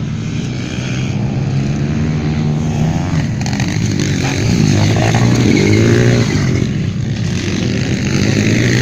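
150cc motocross bike engines revving as the bikes race past, the pitch rising and falling repeatedly; loudest about halfway through.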